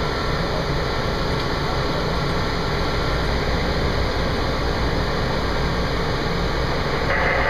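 Fire engine's diesel engine and road noise, a steady rumble and hiss heard from inside the cab while driving.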